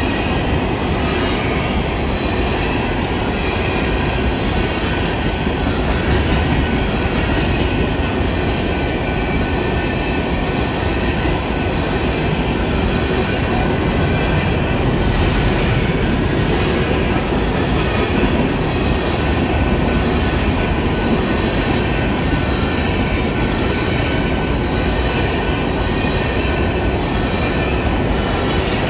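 Coal train's cars rolling past in a steady, loud rumble of steel wheels on rail, with faint high ringing tones from the wheels above it.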